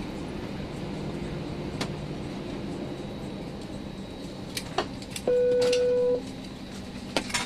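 A steady low hum with a few sharp clicks, and one electronic beep held for about a second a little past the middle, the loudest sound here.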